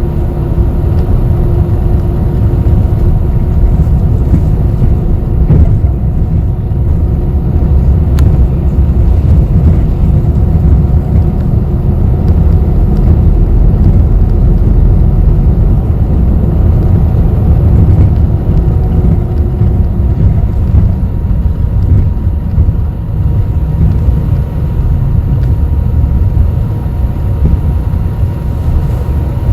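Inside a bus under way: the engine and road noise make a steady low rumble, with a faint hum that fades out about two-thirds of the way through.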